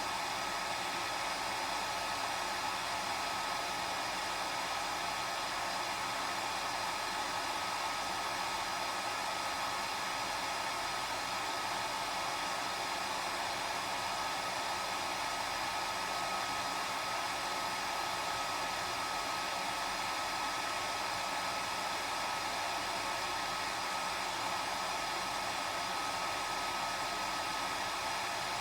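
Hair dryer running continuously at a constant setting: a steady rush of air with a high whine from its motor and fan.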